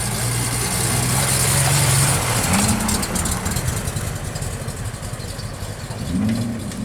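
A car engine running, its note rising slightly and growing louder for about two seconds, then dropping away.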